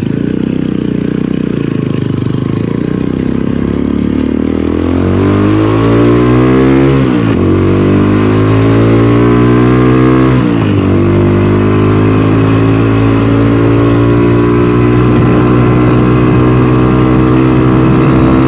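DF250RTS (Venom X22R) motorcycle engine pulling away: low revs at first, then the pitch rises as it accelerates, dropping sharply at two upshifts about a third and halfway through, and climbing slowly in the higher gear afterwards.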